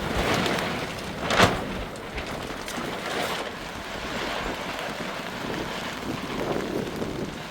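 Heavy rain and gusting wind, the wind buffeting the microphone, with one sharp knock about a second and a half in.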